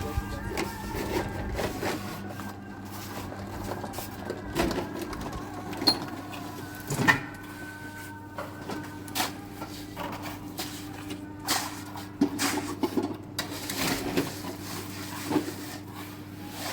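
A steady low mechanical hum with scattered knocks and clatters throughout.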